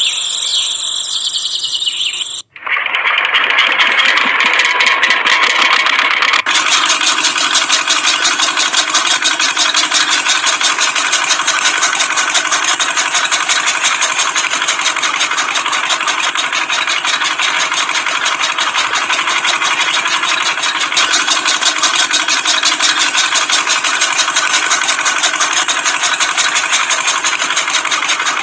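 Music for about the first two and a half seconds, then it cuts off. A small motor starts running in its place with a fast, even ticking whir and keeps running steadily, getting fuller about four seconds after it starts.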